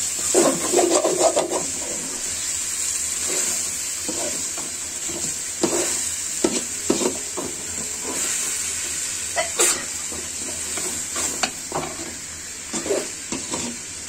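Chicken curry sizzling as it fries in a metal pot, with a metal spatula stirring and scraping the pot in irregular strokes and an occasional sharp clack against the rim. The meat is at the browning stage in oil and ground spices (kasha).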